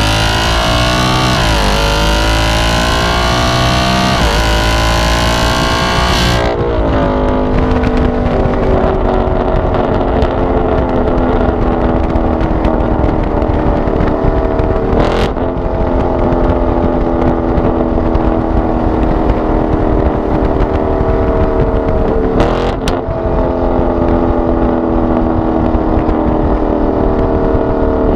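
2018 Ford Mustang GT's 5.0-litre V8 through a Borla ATAK axle-back exhaust with X-pipe resonator delete. It accelerates hard in three rising pulls through the gears, then lets off about six seconds in and settles into a steady cruise whose pitch drifts slowly down. Two short sharp noises stand out, one about halfway through and one later.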